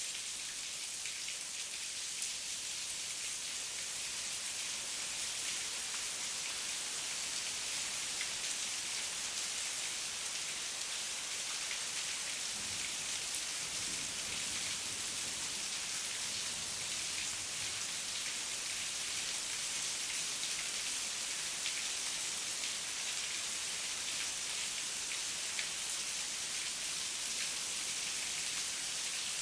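Heavy rain falling steadily, a dense hiss flecked with individual drops ticking. A faint low rumble swells and fades about halfway through.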